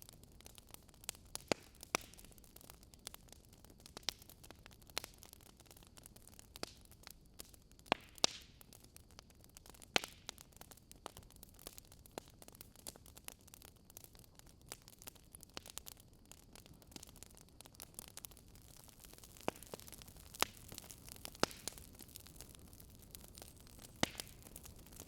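Campfire burning softly: irregular sharp crackles and pops of burning wood over a faint low hiss.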